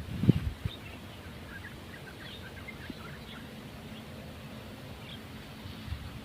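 Small birds chirping faintly and sporadically over quiet outdoor background noise, with a brief low thump about a quarter second in.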